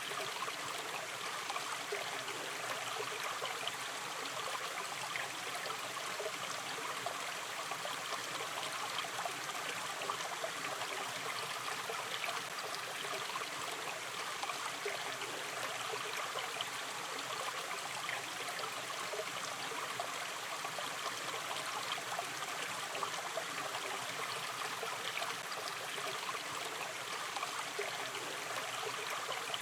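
Shallow river stream flowing gently, a steady babble of running water with fine trickling detail.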